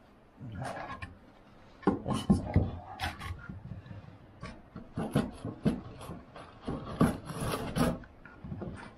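Pieces of firewood knocking and scraping against each other as they are handled and laid on a freshly lit fire: a run of irregular wooden clunks and rubs.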